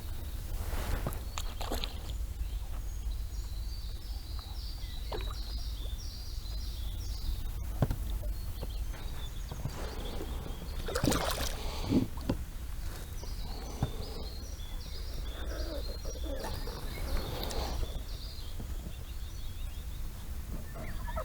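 Water sloshing and splashing around a small boat with a few knocks, while a hooked carp is played close beside it. Some of the splashes, loudest about halfway through, come from the fish. A bird sings in runs of short high chirps twice.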